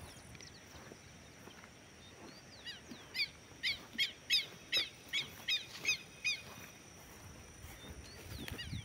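A bird calling a run of about ten short, sharp notes, each falling quickly in pitch, at roughly three a second, for a few seconds in the middle.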